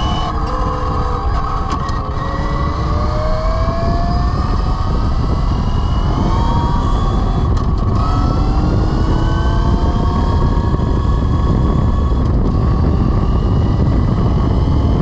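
Velimotors VMX12-F electric motorcycle accelerating in sport mode: its electric motor whines, rising in pitch, drops back about seven and a half seconds in, then climbs again. Heavy wind rumble on the microphone underneath.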